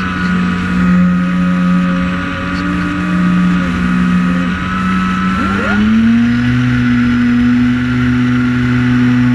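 Multirotor drone's motors and propellers buzzing steadily in flight. The pitch steps up a little past halfway through as the motors speed up.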